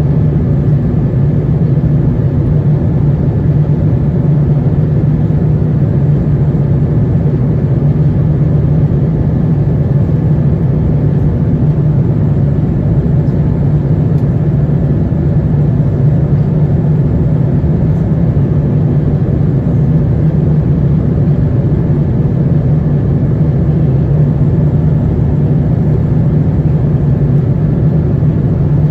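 Steady cabin noise inside an Airbus A350-900 with its engines running: an even low hum and rush that holds without change.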